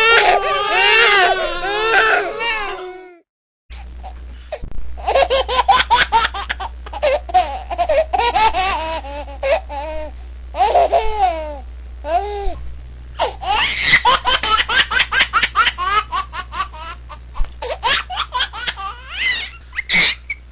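A high-pitched wailing cry that cuts off about three seconds in, followed after a short silence by high-pitched laughter in quick, repeated bursts over a low steady hum.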